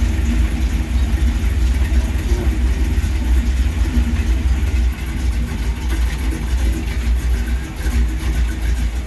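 A classic pickup truck's engine idling through a big 4-inch exhaust: a steady low rumble.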